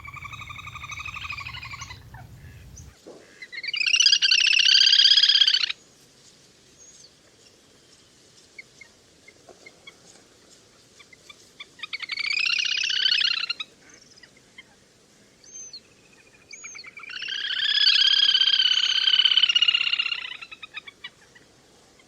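Little grebe giving its whinnying trill four times, each call a rapid, pulsing trill lasting one to three seconds, with quieter gaps between. A low hum sits under the first call.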